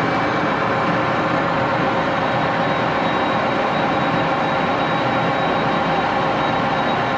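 Shop machinery running steadily: a loud, even mechanical noise with a few faint steady tones.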